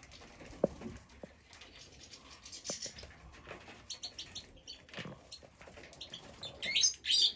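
Young birds chirping in short, high calls, with a louder burst of rapid chirps near the end, over light scattered taps and rustling.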